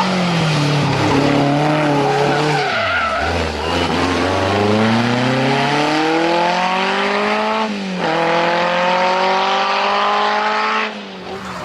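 Historic rally car engine easing off briefly, then accelerating hard with its pitch climbing, a quick gear change about eight seconds in, and climbing again before the sound drops away near the end. There is noisy tyre and road hiss under the engine throughout.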